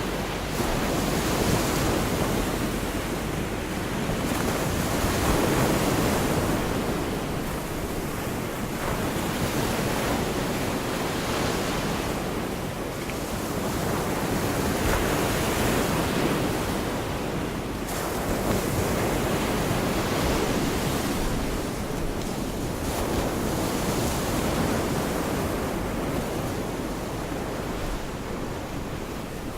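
Gulf of Mexico surf washing onto the beach, the waves swelling and falling back every several seconds, with wind rumbling on the microphone.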